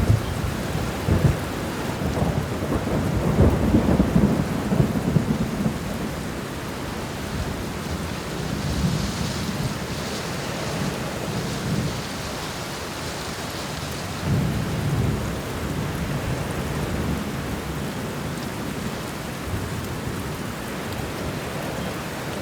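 Steady rain falling, with rolling thunder rumbling low over it: a long rumble in the first few seconds and a shorter one about two-thirds of the way through.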